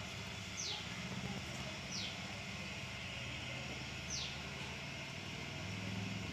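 Steady low hum and background noise, with three short, high chirps that fall in pitch, spread over the first four seconds, from a small bird.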